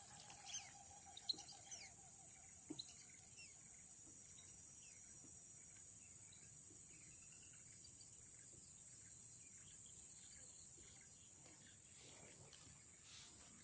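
Faint outdoor ambience: a steady high-pitched insect drone, with scattered bird chirps mostly in the first few seconds.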